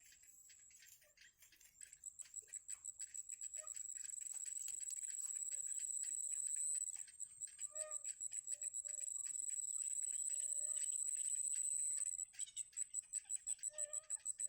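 Nestlings in the nest giving high-pitched, rapidly pulsing begging calls that swell in over the first couple of seconds, break off briefly twice and start again, with a few short lower chirps in between.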